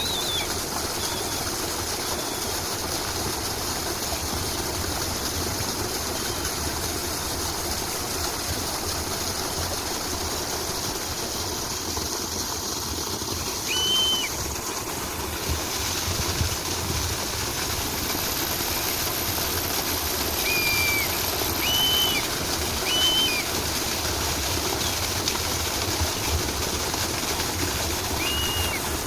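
Running stream water, a steady rushing, with short bird chirps now and then: a few past the middle and a pair near the end. A thin, high steady tone sounds for a few seconds past halfway.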